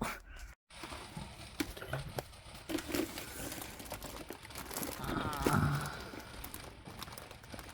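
Rustling and clicking handling noise close to the microphone, with a short strained groan about five seconds in as the person bends with a bad back.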